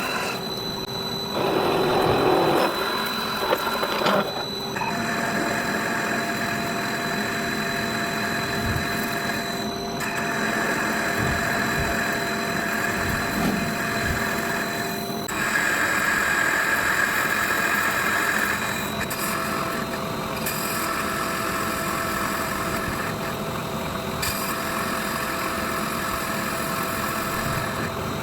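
Electric power tool motor running steadily with a noisy whir and fixed tones, breaking off and resuming with a slightly different pitch several times.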